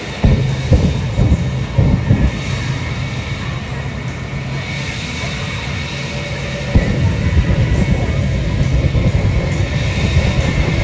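Jet truck's jet engine doing "huff and puff": a quick run of loud afterburner pops in the first two seconds over a steady rumble, then it lights up about seven seconds in and keeps running louder.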